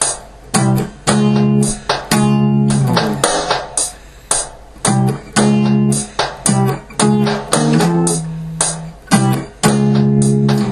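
Music: guitar chords strummed in a choppy, stop-start rhythm, each chord cut off short.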